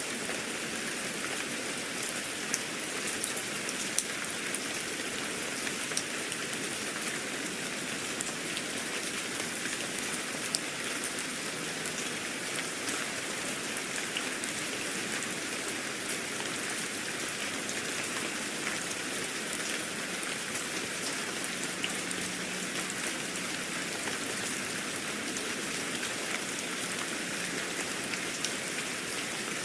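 Steady rain falling, with many small sharp drops pattering on a hard surface.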